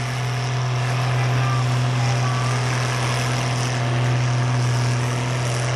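Oliver Row Crop 88 tractor engine running under full load as it drags the pulling sled, a loud, steady hum that holds one pitch.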